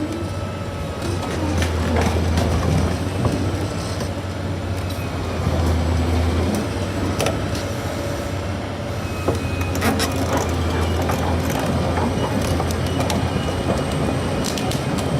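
Liebherr R984 hydraulic excavator running, a steady low diesel drone with scattered metallic knocks and clanks.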